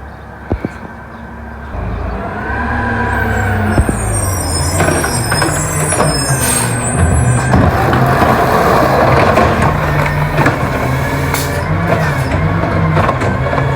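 Garbage truck engine running and growing louder from about two seconds in as the truck comes close, with a high brake squeal and a short hiss of air from the air brakes about midway.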